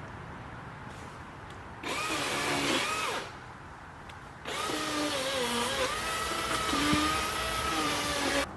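DeWalt cordless electric chainsaw run in two bursts, a short one of about a second and then a longer one of about four seconds, each starting and stopping sharply. Its motor whine dips and wavers in pitch as the chain takes load.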